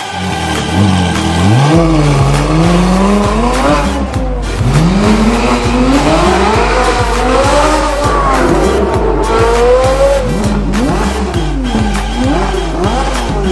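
Ferrari 458's V8 through an Armytrix titanium exhaust, revving and accelerating: the pitch rises and falls several times, with one long climb through the middle and a string of short blips near the end. Background music with a steady bass plays underneath.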